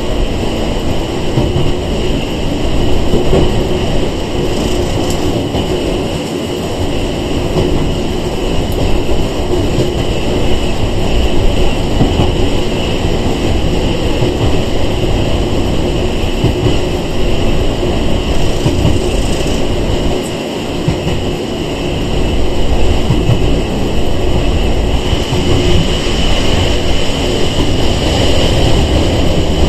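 Running sound heard inside a Sangi Railway 101 series electric train car under way: a continuous rumble of wheels on rail with a steady high whine above it. The loudness dips briefly about two-thirds of the way through.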